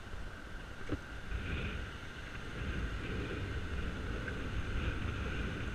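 Wind rumbling over a helmet-mounted camera's microphone while cycling, with a single short knock about a second in.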